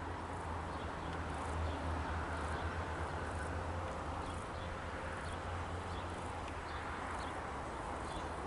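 Quiet outdoor ambience at a rural railway station: a low steady hum with faint, scattered high chirps of insects or birds.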